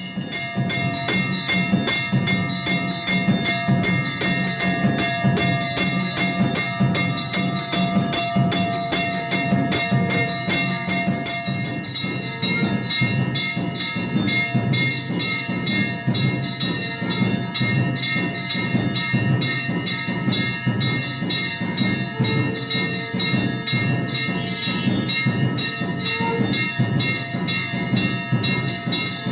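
Hindu temple bells rung rapidly and without pause for evening aarti, many strikes blending into one continuous, many-toned ringing.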